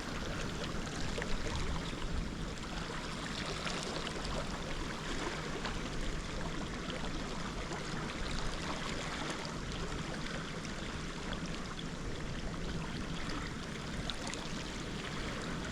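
Steady rush of flowing water, an even hiss without pauses.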